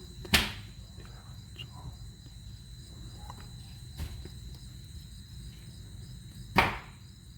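Hand tools and metal parts knocking sharply during work on a car's outer tie rod: one knock just after the start, a fainter one midway, and the loudest near the end. A steady high-pitched tone and a low hum run underneath.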